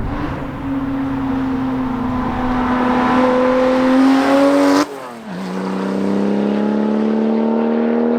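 Porsche 996 911 Turbo's twin-turbo flat-six through an aftermarket titanium X-pipe exhaust, pulling under acceleration with a slowly rising note. About five seconds in the pitch drops abruptly with an upshift, and the engine pulls on at a lower pitch in the next gear.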